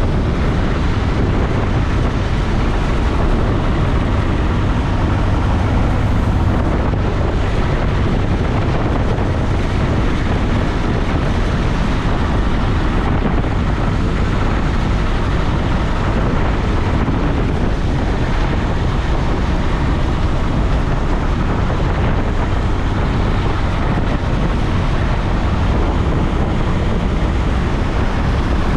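Piper J-3 Cub's engine and propeller droning steadily in flight, with wind rushing past, heard from inside the cockpit.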